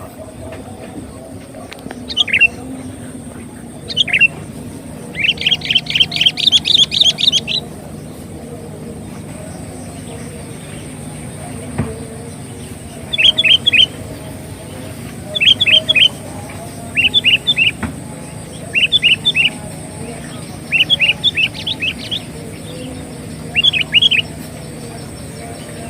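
Sooty-headed bulbul (kutilang) song: two single falling notes, then a fast run of chirps a few seconds in, then short phrases of about three quick notes repeated every two seconds or so. A steady faint high whine sits underneath.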